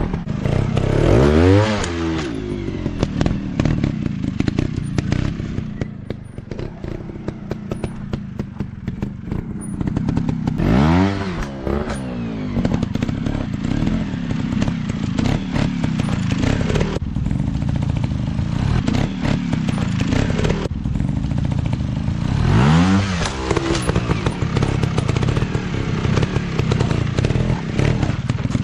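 Dirt bike engines running steadily, with three sharp revs that rise and fall in pitch: about a second in, about eleven seconds in, and about twenty-three seconds in.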